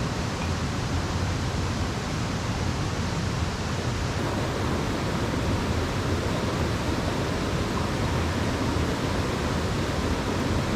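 Mountain stream rushing steadily over rocks, an even hiss of running water.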